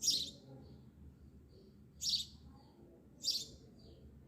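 A bird chirping: three short high chirps, unevenly spaced, over a faint low background hum.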